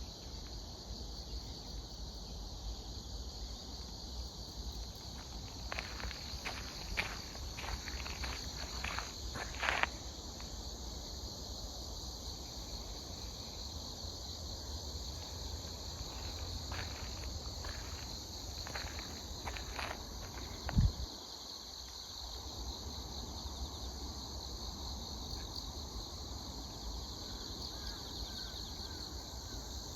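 Steady high chorus of autumn grass insects, crickets among them, with scattered footsteps on the path in two short runs. A single brief low thump comes about two-thirds of the way through.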